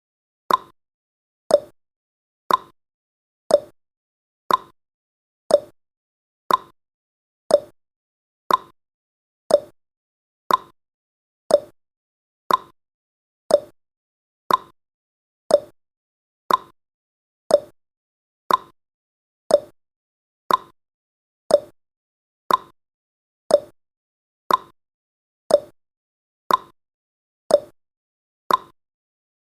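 Ticking-clock sound effect of a countdown timer, one tick a second, the ticks alternating higher and lower like a tick-tock.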